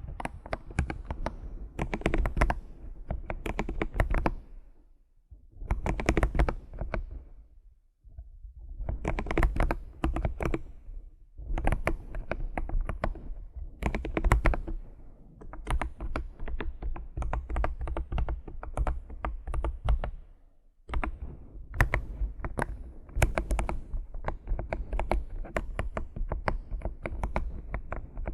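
Computer keyboard being typed on in quick, dense runs of key clicks, broken by brief pauses a few times.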